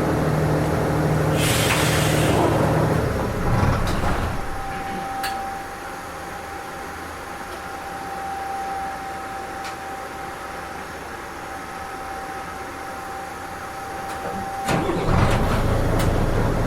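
Hino Rainbow RM bus (KK-RM252GSN) heard from inside, its engine running with a loud hiss of air about two seconds in. The engine then falls quiet for about ten seconds with only a steady high tone left, and starts up again with a click about fifteen seconds in: an idling stop and restart at a stop.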